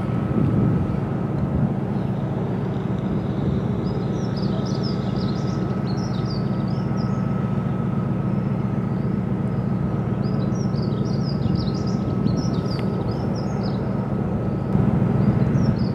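A steady, low engine drone with a thin constant whine above it, while birds chirp in short high bursts several times.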